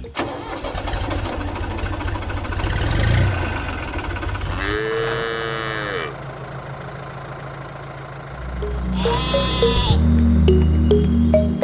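A farm animal bleating twice, each call long and arching in pitch, over background music.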